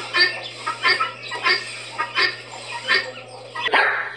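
Helmeted guineafowl giving a series of short, harsh, evenly spaced calls, about six in a row. Near the end a dog barks.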